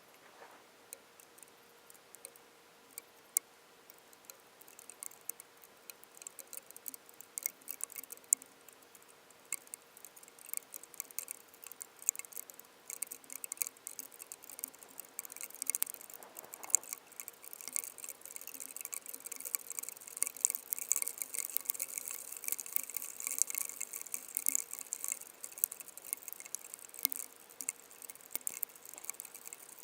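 Raindrops pattering on a hard surface, at first scattered single ticks, then growing steadily denser and louder as the rain picks up, over a faint steady hum.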